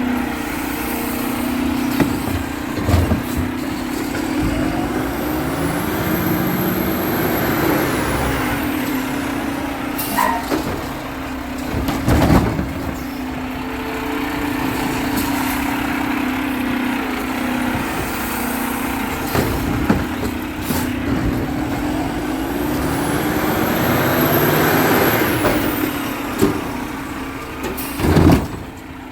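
Garbage truck's engine running steadily, with a whine that rises and falls twice, and several sharp bangs, the loudest about twelve seconds in and near the end.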